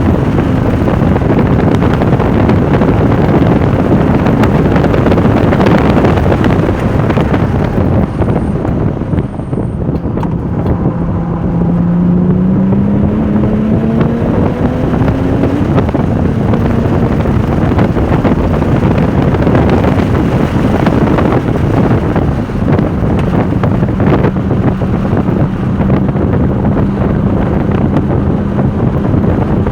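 Porsche 996 Turbo's twin-turbo flat-six running hard on track, with loud wind noise on the microphone. About ten seconds in the sound eases briefly, then the engine note climbs steadily in pitch as the car accelerates.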